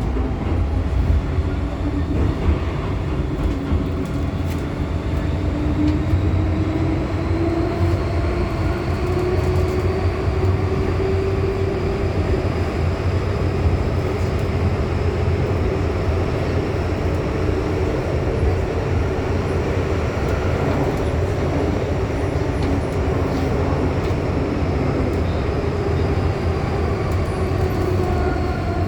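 MTR M-Train metro train heard from inside the car while running between stations: a steady rumble with a whine that rises gently in pitch, then falls near the end as the train slows.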